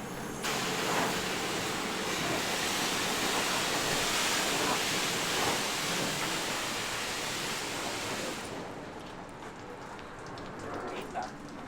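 High-pressure spray wand of a self-serve car wash blasting soapy water onto a pickup truck, a steady hiss that starts about half a second in and eases off near the end.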